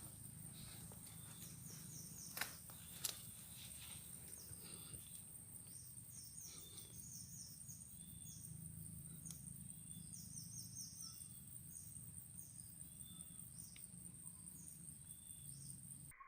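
Quiet rural ambience: a steady high insect drone, with small birds chirping in quick runs of short high notes and a few longer calls. Two sharp clicks come about two and a half and three seconds in.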